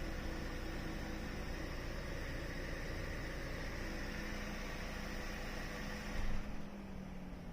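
Remotely started 80-series Toyota Harrier running with a steady hum and hiss. A little over six seconds in there is a brief louder moment, after which the hiss drops away and the sound gets quieter.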